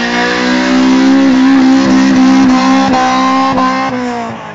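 Car engine held at high revs during a burnout, a steady high engine note with the tyres spinning and smoking on the spot; near the end the revs drop away.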